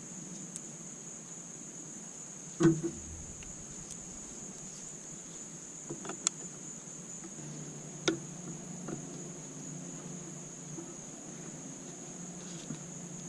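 A few sharp clicks and knocks of a hand tool working on coolant hose clamps in an engine bay, the loudest about three seconds in, with two more later, over a steady high-pitched tone.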